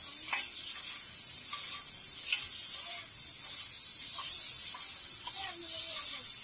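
Chopped chicken and onions sizzling with a steady hiss on a large flat iron griddle, with repeated scrapes and clinks of metal spatulas tossing it every second or so.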